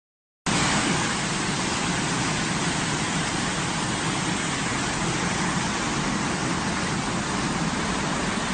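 Steady, even rush of water, like floodwater pouring past, starting abruptly about half a second in.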